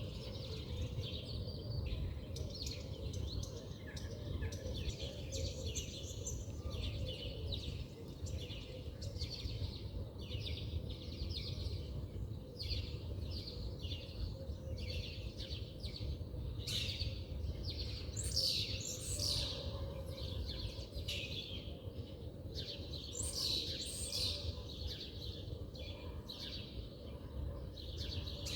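Several small birds chirping and singing in quick short notes, busiest about two-thirds of the way through, over a steady low outdoor rumble.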